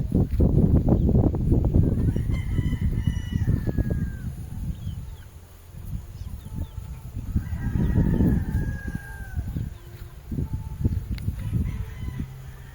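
Gamefowl roosters crowing, two crows a few seconds apart, over loud low noise that is heaviest in the first few seconds.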